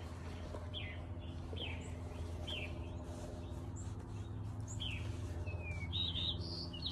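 A small bird chirping, short high notes about once a second with a longer falling note about five seconds in and a quick cluster near the end, over a steady low hum.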